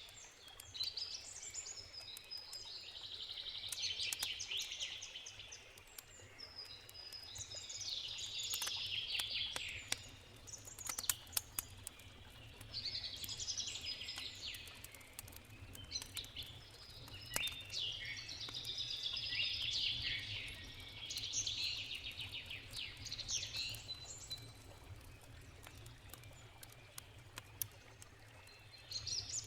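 A songbird singing short warbling phrases every few seconds, over the occasional sharp crackles and pops of a campfire and a steady low rush of river water.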